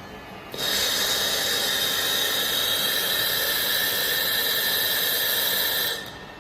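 Robotic laser welding machine running a weld: a loud, steady hiss that starts suddenly about half a second in and cuts off sharply about a second before the end.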